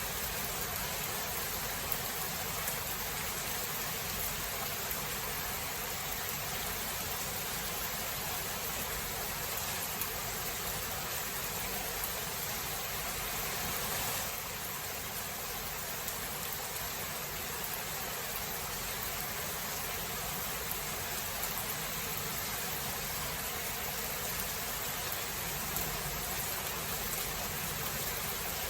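Steady rain falling in a thunderstorm, an even hiss with faint scattered drop ticks and no distinct thunderclap. The level dips slightly about halfway through.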